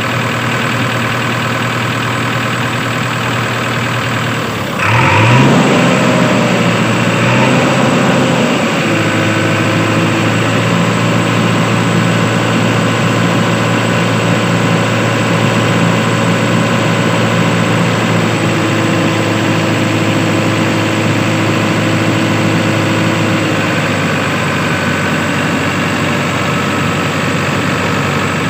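Engine sound of a tractor running steadily. About five seconds in it gets louder with a brief change in pitch, then settles back to a steady run.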